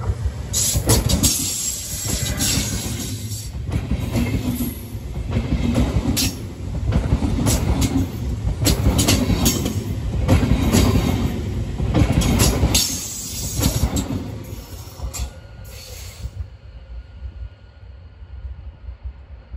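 A train passing close by, its wheels clattering over the rail joints in a rapid, uneven rhythm. After about sixteen seconds the clatter stops and a quieter rumble is left.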